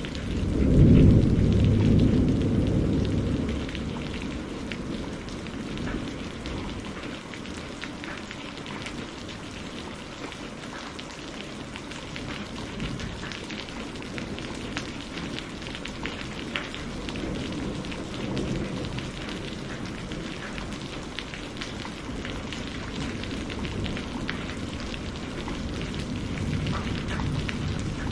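Steady rain falling, with many individual drops ticking, and a roll of thunder that swells right at the start, peaks about a second in and rumbles away over the next few seconds. Fainter rumbles of thunder come again about halfway through and near the end.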